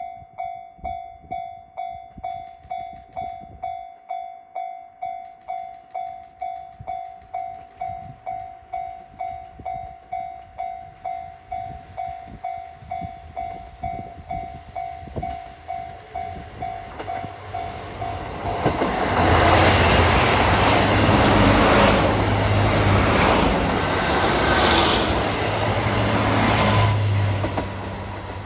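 A Japanese level-crossing alarm dings steadily, about twice a second. Then a KiHa 183 series diesel express approaches and passes close by, and the loud run of its engines and wheels on the rails drowns out the alarm. A brief high squeal comes near the end.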